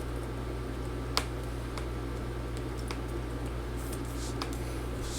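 A few faint clicks and taps of small laptop parts being handled while a MacBook Pro is reassembled, the sharpest about a second in, over a steady low hum.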